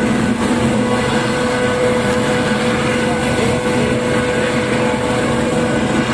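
Helicopter running, a loud steady drone with a constant whine.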